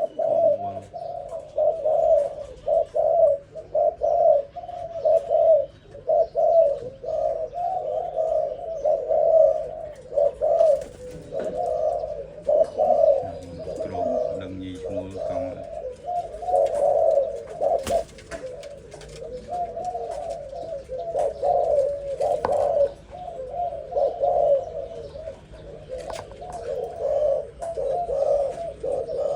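Young zebra dove cooing: long strings of quick, staccato coo notes run on almost without pause, each string stuttering at a low, steady pitch.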